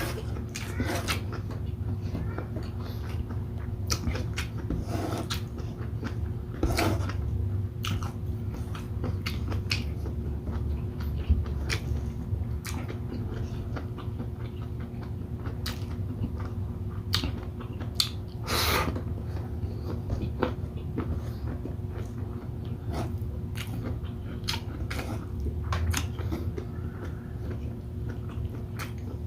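Close-up chewing and biting while eating shrimp in coconut milk with rice: scattered wet smacks and clicks, irregularly spaced, over a steady low hum.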